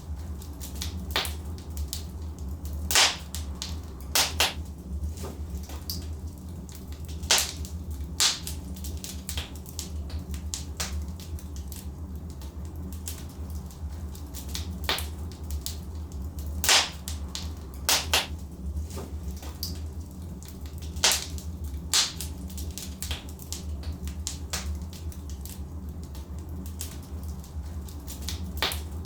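Logs burning in a fireplace, crackling with irregular sharp pops and a few louder snaps every few seconds over a low steady rumble.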